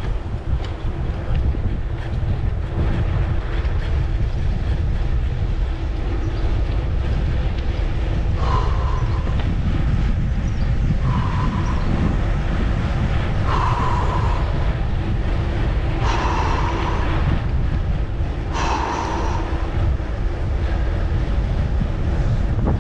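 Steady low rumble of wind buffeting the microphone while cycling. In the middle, a short call or tone centred near 1 kHz sounds five times, about two and a half seconds apart.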